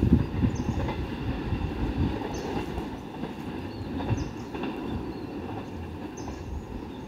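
Empty cement freight train running away along the track, its low rumble and wheel-on-rail noise fading steadily as it recedes.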